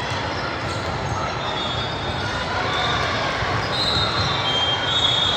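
Indoor volleyball game sound in a gym hall: ball hits and court noise over a steady hum of crowd voices, with a few short high-pitched tones in the second half.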